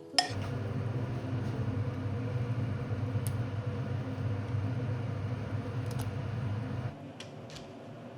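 A small kitchen appliance motor hums steadily for about seven seconds. It starts with a click just after the beginning and cuts off near the end.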